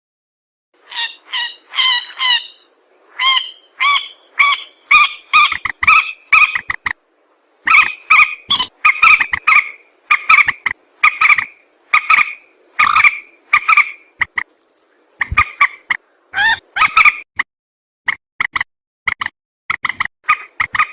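Recorded lure call of a mandar, a swamphen or rail: a rapid string of short, harsh, nasal calls at about two a second. The calls come in loud bouts separated by brief pauses.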